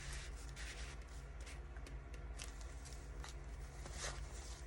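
Soft rustling and sliding of paper and card, with a few light taps, as a paper tag is slipped into a journal pocket to test the fit.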